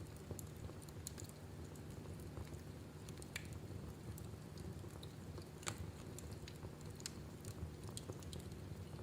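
Wood fire in a fireplace crackling: scattered sharp pops and snaps over a low steady rumble of flame. The loudest pop comes a little past halfway through.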